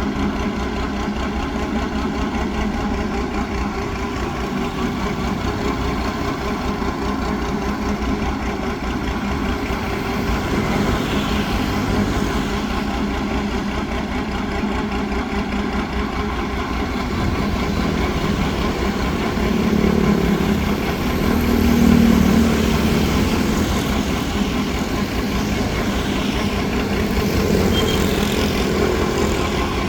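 Engine of a homemade mud suction boat running steadily at work, with an even low pulse; it swells briefly about two-thirds of the way through.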